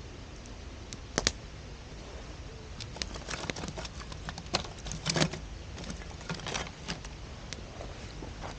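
Wood campfire crackling, with a couple of sharp cracks about a second in and then a dense run of snaps and pops, the loudest about five seconds in.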